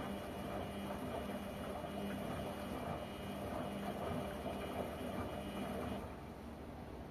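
LG washing machine running with a steady hum, which cuts off abruptly about six seconds in.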